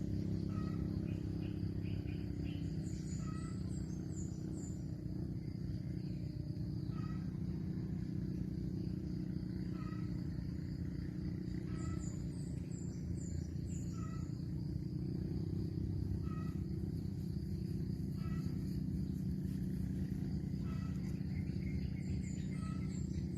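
Outdoor ambience: a steady low rumble under an insect's steady high drone, with a bird repeating a short chirp every couple of seconds. Three times, a bird gives a quick run of high descending notes.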